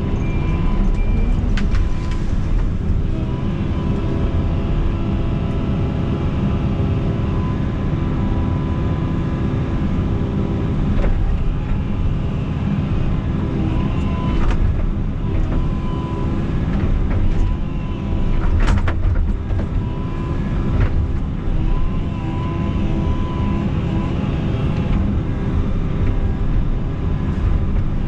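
Diesel engine of a tracked excavator running steadily under working load, with a thin hydraulic whine coming and going. There are a few sharp cracks or knocks, the loudest about two-thirds of the way through.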